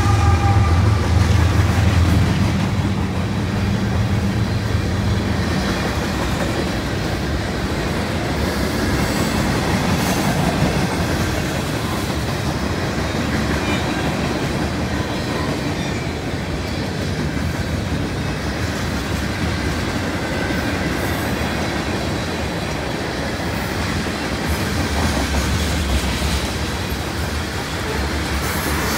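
Canadian National freight train passing. The trailing diesel locomotive's engine hum fades over the first few seconds, then freight cars roll by with steady wheel rumble and the clickety-clack of wheels over the rails.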